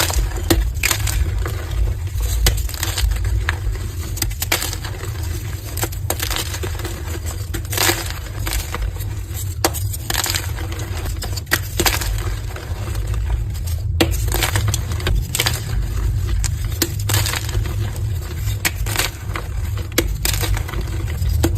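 Pastel-dyed gym chalk blocks being crushed: a continuous run of crumbly crunches with sharper snaps, over a low steady hum.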